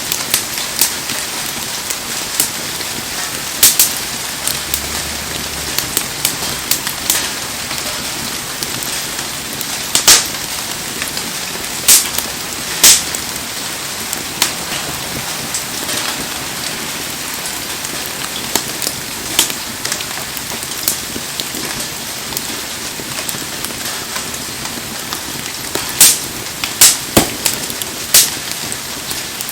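Heavy rain falling steadily, with a wood campfire crackling and now and then giving a sharp pop, several close together near the end.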